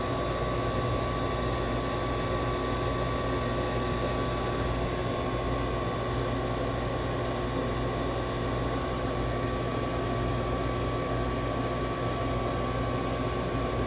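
Gas furnace draft inducer motor running steadily: an even fan hum with a thin, constant whine over it.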